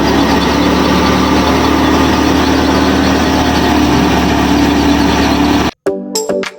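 Machine engine running steadily with a constant hum, which cuts off abruptly almost six seconds in. Electronic background music with a beat takes over near the end.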